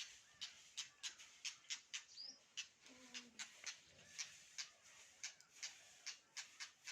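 A bird making short, sharp chirps in quick succession, about three a second, with a brief higher whistle-like glide about two seconds in.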